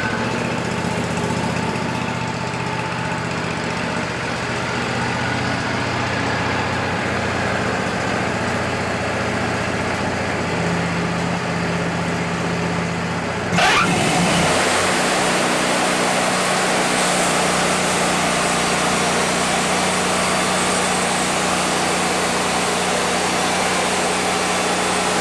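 Wood-Mizer LT40 band sawmill's engine running steadily. About halfway through, the sound changes suddenly and becomes louder and hissier, as the band blade engages and saws through the cedar log.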